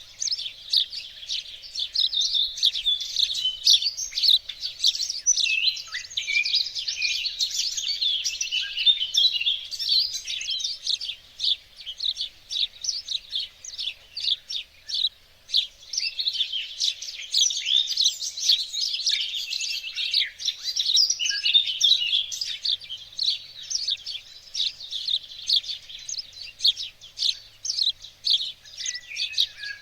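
Many small songbirds singing and chirping at once: a dense chorus of rapid high twitters and trills.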